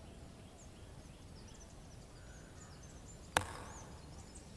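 Small birds chirping and twittering over a low, steady outdoor background noise, with one sharp knock about three seconds in that stands out above everything else.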